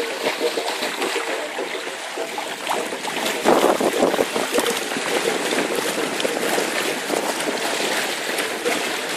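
Water rushing and splashing along the hull of a paraw outrigger sailboat under way, with a louder surge about three and a half seconds in.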